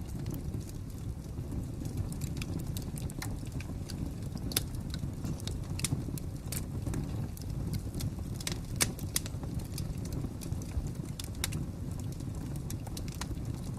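Wood fire crackling: irregular sharp pops and snaps over a low, steady rumble of burning. The loudest pops come a little before halfway and again a little after.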